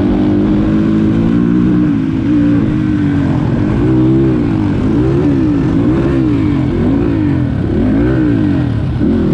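Dirt bike engine running, steady for about three seconds, then revving up and down about once a second as the throttle is worked.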